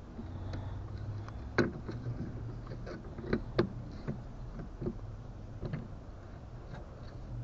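Boat fittings being handled: a string of short, sharp clicks and knocks, the loudest about one and a half seconds in and two more around three and a half seconds, over a low steady hum.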